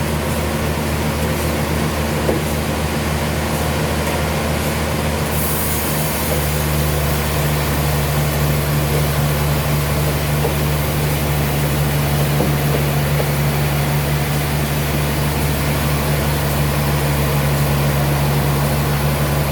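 Sawmill machinery running with a steady engine-like hum, its note deepening and growing stronger about six seconds in.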